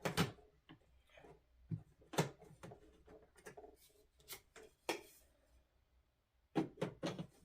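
Scattered light plastic clicks and knocks as the hose and tools of a Hoover WindTunnel upright vacuum are handled, with the vacuum not running. The knocks come irregularly, with a quick cluster near the end.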